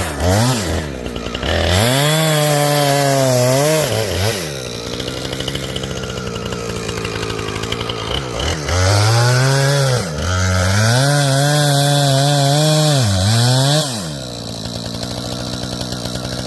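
Chainsaw engine revved to full throttle twice, a run of about two seconds and then a longer one of about five seconds starting about nine seconds in, dropping back to a rough idle between runs and again near the end.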